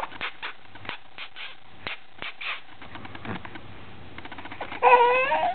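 A pet bird making scattered soft clicks, then near the end a short squeaky call with a wavering pitch.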